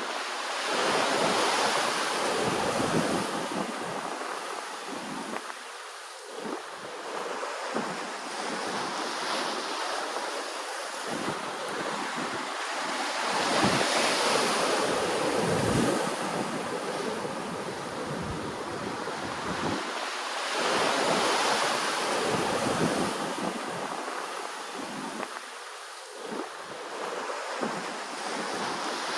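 Ocean waves breaking and washing on the shore in a continuous rush. It swells loudest three times, about a second in, around the middle and around two-thirds through.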